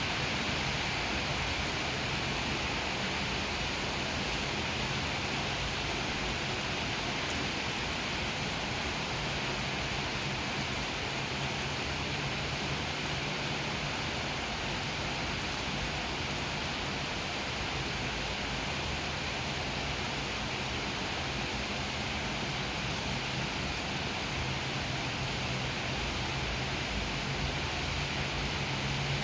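Steady rain falling, an even hiss throughout, with a faint low hum underneath.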